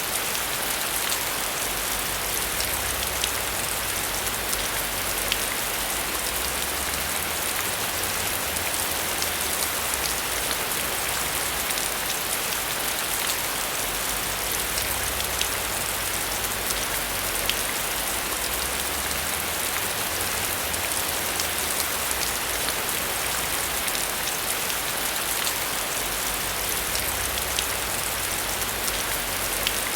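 Steady heavy rain: a dense hiss of falling rain with many sharp drop impacts, over a low rumble that swells and fades.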